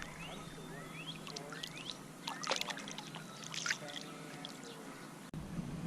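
Water splashing and trickling as a sauger is let back into the river, with two louder splashes a little past halfway. Birds chirp in the background.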